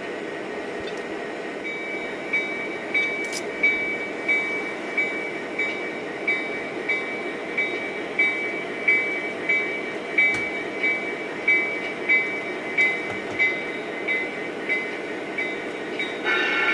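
Sound-equipped model diesel locomotive running, its engine sound steady, with the bell starting about two seconds in and ringing about once every two-thirds of a second. The horn sounds right at the end.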